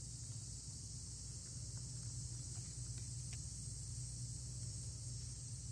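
Quiet background: a steady high-pitched hiss over a low hum, with a few faint ticks from the cards being handled.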